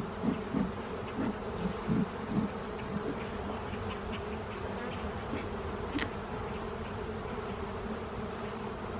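Honey bees buzzing around an open hive, a steady drone with several bees flying close past in the first couple of seconds, their buzz briefly swelling and bending in pitch. A single sharp click about six seconds in.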